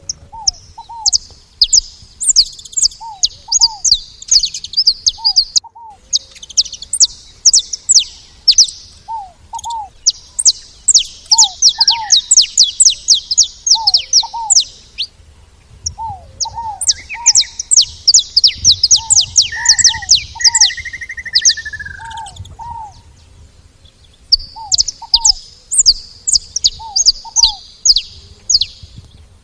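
Saffron finches chirping and twittering in rapid high bursts, several seconds at a time with short pauses between. A lower, shorter two-note call repeats every second or two underneath.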